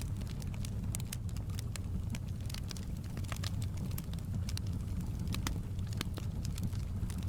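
Wood fire crackling, with frequent sharp irregular pops, over a steady low rush of flowing river water.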